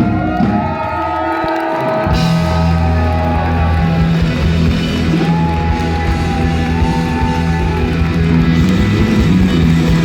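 Rock band playing live: sustained melodic lines over bass and drums. The low end drops out briefly, and the full band comes back in with a crash about two seconds in.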